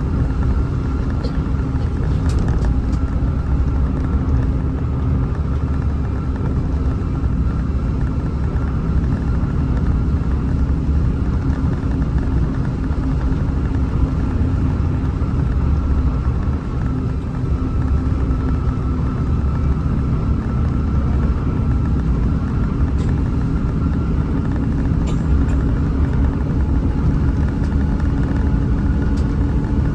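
Hino RM 280 bus running steadily under way: a continuous low rumble of diesel engine and road noise with a steady hum.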